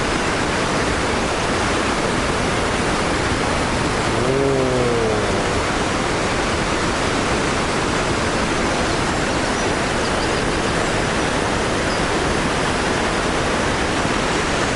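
Kegon Falls, a large waterfall, pouring: a loud, steady, even rush of falling water.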